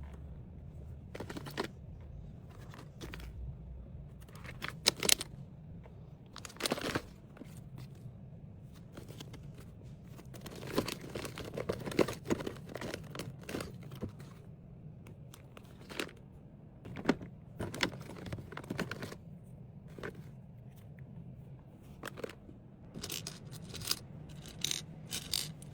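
Small items being handled and packed by hand: plastic packaging crinkling and rustling, with scattered light clicks and knocks.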